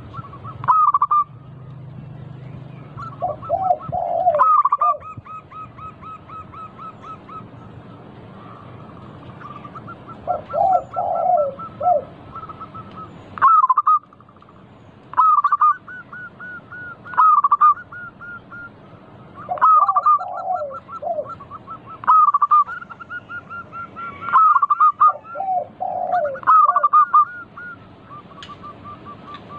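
Zebra doves (perkutut) calling over and over: quick runs of short notes, lower cooing clusters every few seconds, and a loud accented note about every two seconds.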